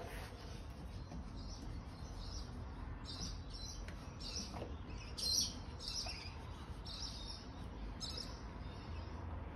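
A bird chirping over and over: short, high calls about every half second, starting a few seconds in and stopping shortly before the end. One call a little past the middle is louder than the rest.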